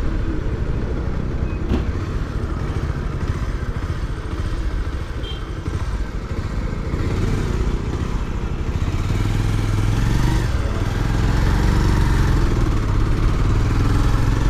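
Motorcycle engine running while riding, its note climbing a little about two-thirds of the way through.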